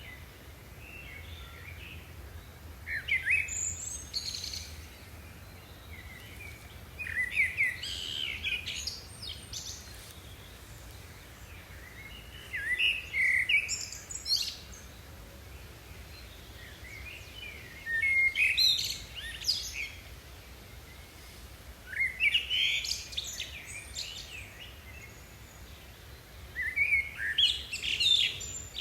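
A bird singing short chirping phrases, one about every four to five seconds, over a faint low steady hum.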